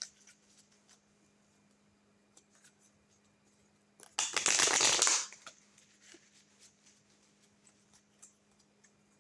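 A tarot deck shuffled in one brisk burst of about a second, midway through, with light taps and clicks of cards being handled before and after.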